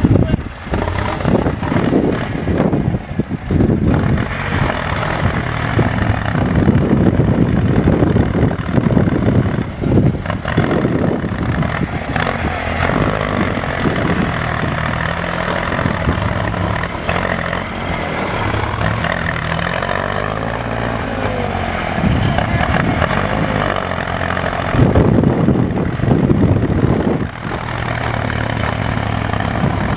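Tractor engine running hard under load as the tractor pulls through mud, its pitch rising and falling as it is revved, with knocks and clatter throughout.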